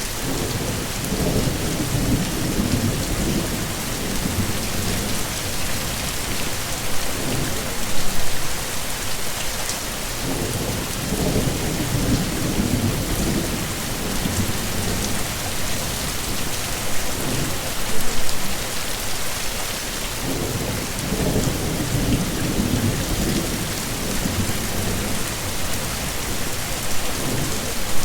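Heavy rain falling steadily, with low rolling rumbles of thunder swelling and fading about three times.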